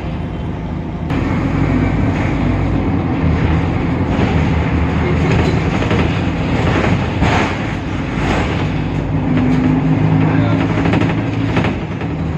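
Temsa Avenue LF city bus under way, its DAF PR 228 diesel engine and ZF automatic driveline running. The sound gets louder about a second in, and a steadier droning tone comes in over the last few seconds.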